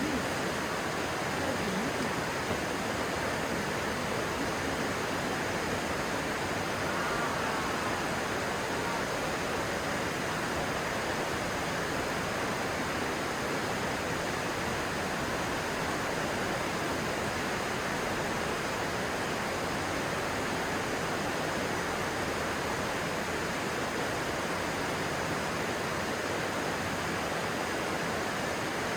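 Stream water rushing steadily, a constant even hiss of flowing water.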